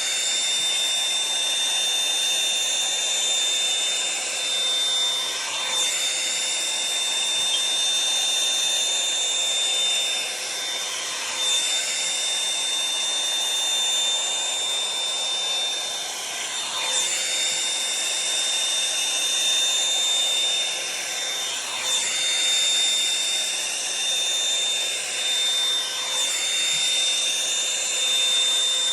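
Revlon One-Step hot-air brush hair dryer running steadily, a whooshing blow with a high motor whine, its tone sweeping down and back up about every five to six seconds.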